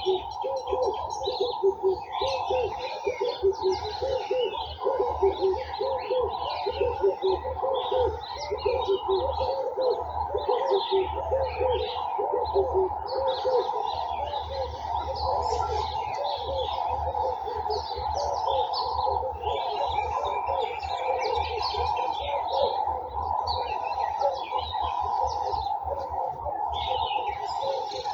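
Garden birds chirping and calling together in a dense chorus, with a quick run of low repeated notes through about the first half.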